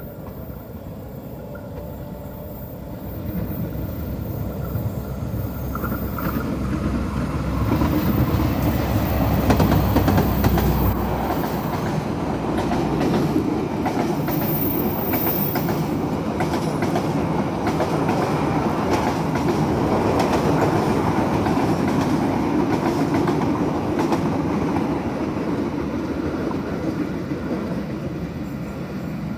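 Passenger train passing at speed: a deep locomotive rumble builds and goes by about ten seconds in, followed by a long run of carriages rattling and clattering over the rails that eases off near the end.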